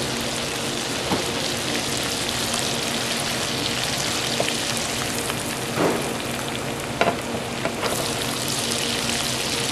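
Halved lobster tails frying in butter and olive oil in a skillet, a steady sizzle of bubbling fat, with a few brief light clicks.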